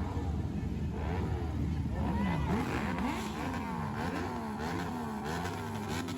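Motorcycle engines revving over and over, their pitch repeatedly rising and falling over a steady low engine rumble, with sharp crackles in the second half.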